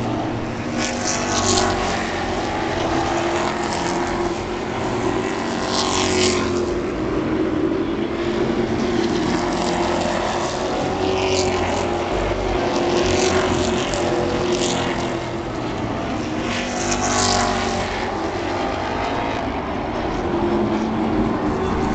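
Stock-car-style race trucks running laps on an oval track, engines droning throughout and rising and falling in pitch, with several louder short whooshes as trucks pass close by.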